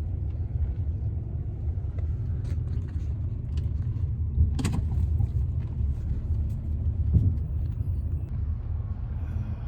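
Low steady rumble of a car heard from inside the cabin, with a few faint ticks and one sharper knock about four and a half seconds in.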